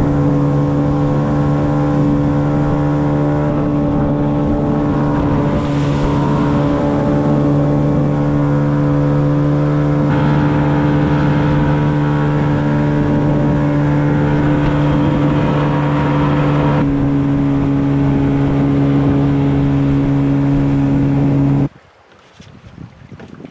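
An engine running at a steady speed, a constant droning hum that stops abruptly near the end.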